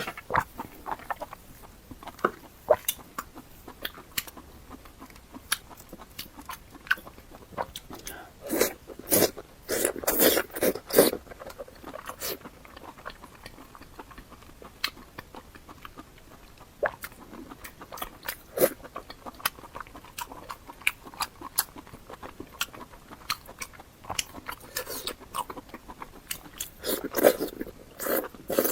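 Close-miked eating of lamb intestine noodles: chewing and biting with many short, wet mouth clicks. There are louder clusters of mouth noise around nine to eleven seconds in and near the end.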